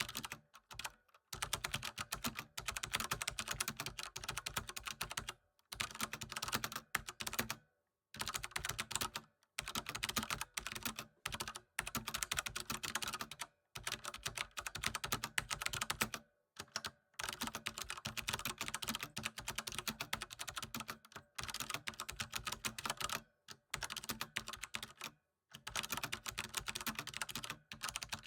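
Typing on a computer keyboard: quick runs of key clicks lasting a few seconds each, broken by short pauses.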